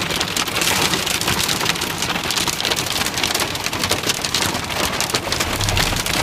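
Heavy rain pouring down: a dense, steady hiss of many fine drop impacts. A low hum comes in near the end.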